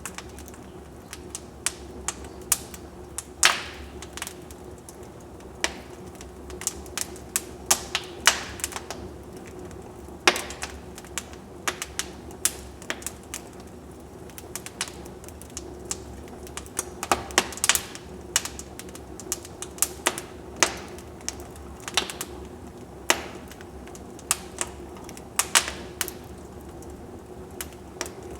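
Wood fire burning in a fireplace, crackling: irregular sharp pops and snaps over a steady low background, with a few louder pops scattered throughout.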